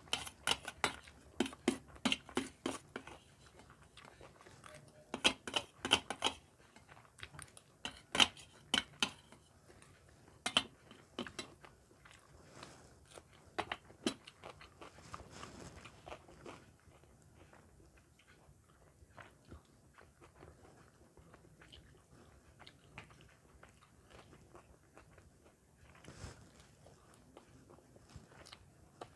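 A person eating close to the microphone: chewing a mouthful of fried rice and biting raw red onion, with bursts of crisp crunches through the first half, then softer chewing.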